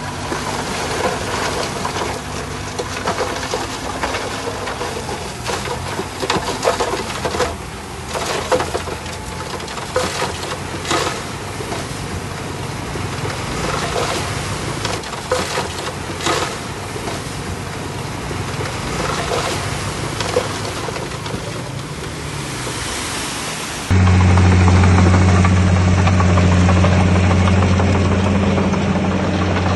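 Diesel engine of earthmoving machinery running under work, with repeated clanks, knocks and rattles, typical of a crawler dozer working soil. About three-quarters of the way through it cuts abruptly to a louder, steady diesel engine drone.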